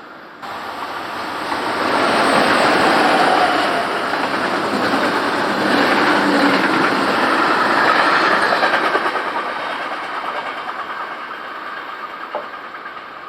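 A train passing close by on the track: loud running noise from the wheels and rails that starts abruptly, swells over the first couple of seconds, stays loud for several seconds, then fades as the train moves away.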